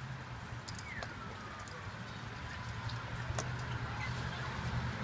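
Birds calling: one drawn-out call slides down in pitch about a second in, with scattered sharp clicks over a low steady rumble that grows louder toward the end.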